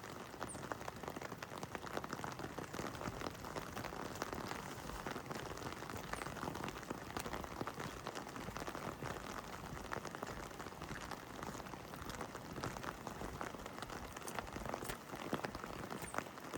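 Steady heavy rain falling on hard surfaces, a dense patter of many drops with a constant wash beneath.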